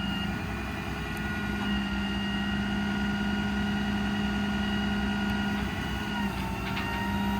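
Ram 5500's Cummins 6.7 diesel engine running steadily while powering the crane's hydraulics, with a steady whine over the engine hum that shifts slightly in pitch about six seconds in.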